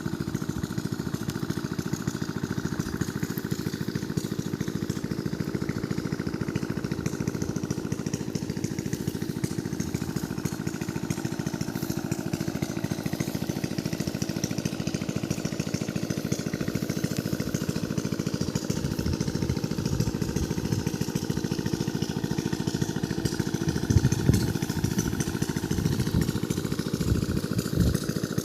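Diesel irrigation pump engine running steadily at an even speed, with some louder low thuds in the last several seconds.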